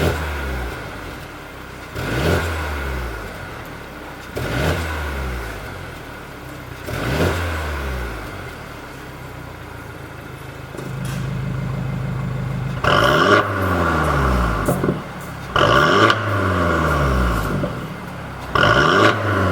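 Mercedes-Benz E300's 2.0-litre turbocharged four-cylinder engine being blipped at standstill through an aftermarket variable-valve performance exhaust. It gives six quick revs, each rising sharply and falling back to idle, with a short steady hold between. The last three revs are louder and raspier than the first three.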